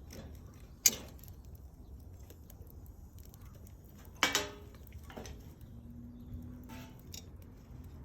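Wood fire crackling, with a sharp snap about a second in and a louder crackling pop around four seconds, over a low steady rumble.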